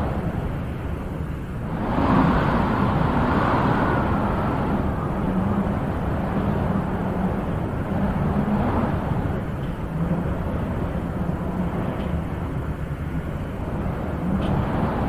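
Wind blowing in gusts: a steady rushing that swells about two seconds in, and again more gently later on.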